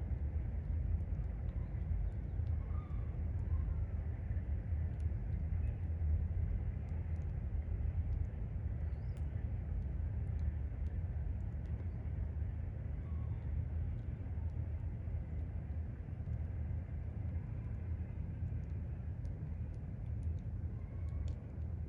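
Low, steady rumble of a distant train, easing off slowly over the last several seconds, with faint scattered ticks above it.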